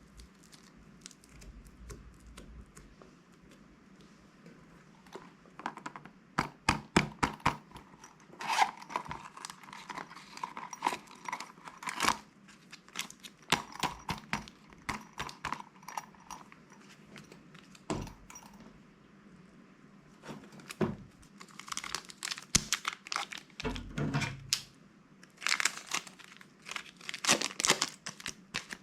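Plastic bags crinkling and crackling as they are handled and torn open, in bursts of sharp crackles after a few quiet seconds.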